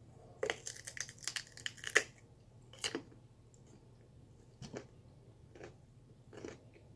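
Crisp crunching of a bite into raw sweet potato: a quick run of crackles in the first two seconds, loudest about two seconds in, then a few fainter crunches about a second apart as the mouthful is chewed.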